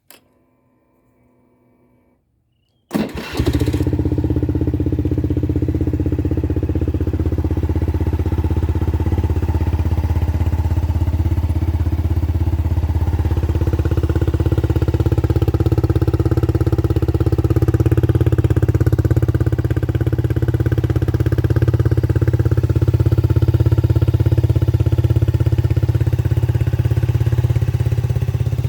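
Honda Zoomer-X scooter's single-cylinder engine breathing through a Moriwaki aftermarket muffler, starting about three seconds in and then idling steadily.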